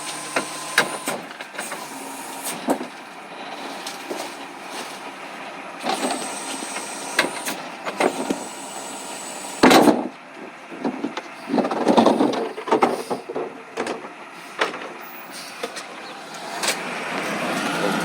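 Recycling truck at work: a steady mechanical background with scattered clanks and knocks. A loud bang comes about ten seconds in, followed by a couple of seconds of dense clattering, and the noise swells near the end.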